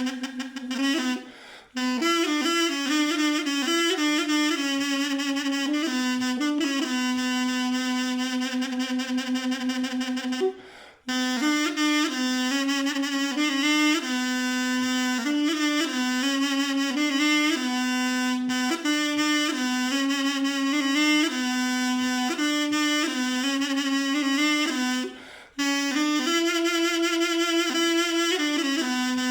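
Solo mey, the Turkish double-reed folk pipe, playing a slow folk melody of long held notes with small ornamental turns. The melody breaks off briefly three times for breaths.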